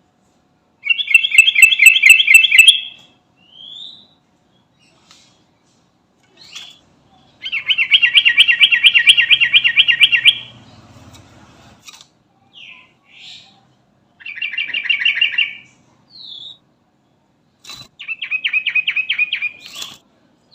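Sooty-headed bulbul (trucukan) singing: four loud bouts of fast, bubbling trilled song, each lasting about one and a half to three seconds, with short single notes in between.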